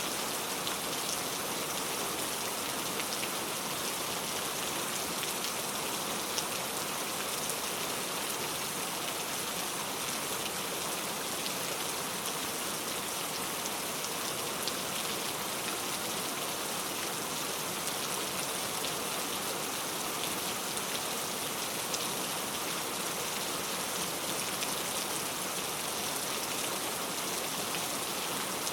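Heavy rain falling steadily, a dense even hiss with scattered patter of drops.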